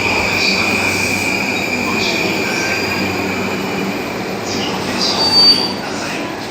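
Train running past on the rails, its wheels squealing with a steady high tone that fades away over the first few seconds. A brief sharp high squeak comes about five seconds in.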